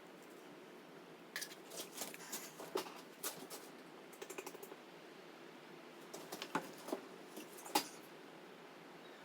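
Scattered light clicks and taps of handling containers and tools during a dirt bike oil fill, in loose clusters with short pauses, over a faint low hum.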